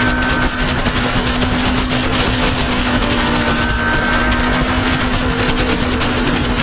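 Motorcycle engine running steadily at cruising speed, a held even drone under heavy wind noise on the camera microphone.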